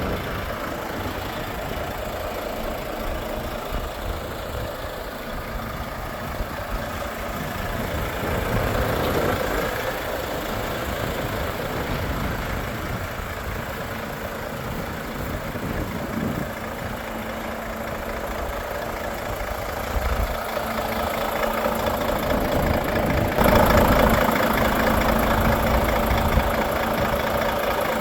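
Volvo FH 460 truck's 13-litre inline-six diesel (D13) idling steadily, growing louder and fuller about two-thirds of the way in.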